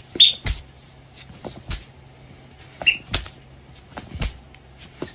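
A series of irregular knocks and bangs, about eight in five seconds, two of them with a short high squeak.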